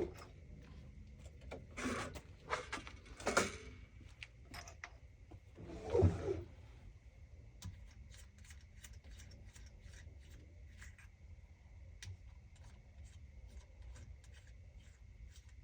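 Handling noises: a few brief rubs and brushes in the first half, the loudest about six seconds in, then a run of light, scattered clicks and ticks.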